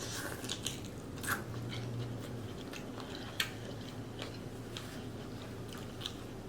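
Close-miked eating sounds: chewing with scattered wet mouth clicks and smacks, irregular and a few louder ones, over a faint steady low hum.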